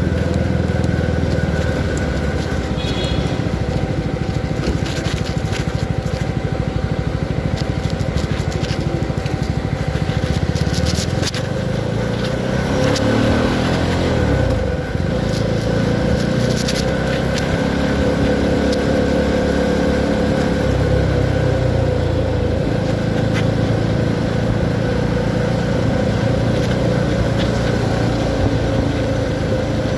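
CFMoto 300SR motorcycle's single-cylinder engine running steadily. About halfway through, its pitch drops and then climbs again, then it settles back to a steady note.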